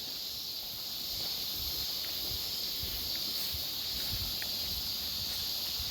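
Outdoor ambience: a steady high chorus of insects such as crickets, with uneven low wind rumble on the microphone.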